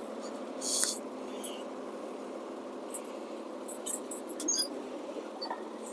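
International DT466 diesel idling steadily, heard muffled from inside the truck's cab, with a few short squeaks and clicks about a second in and again around three to four and a half seconds in.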